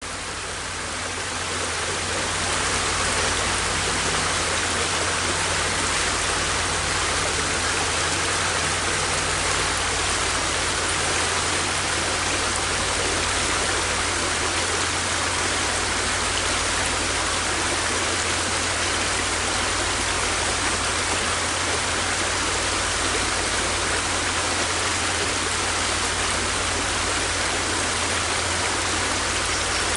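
River water flowing: a steady, even rush of water that fades in over the first couple of seconds.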